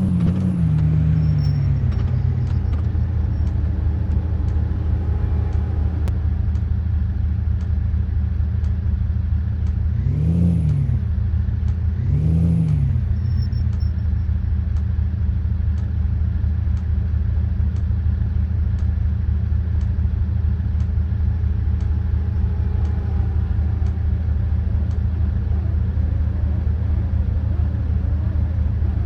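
A car engine running steadily while the car is driven, its pitch easing down in the first couple of seconds. Two brief swells rise and fall about ten and twelve seconds in.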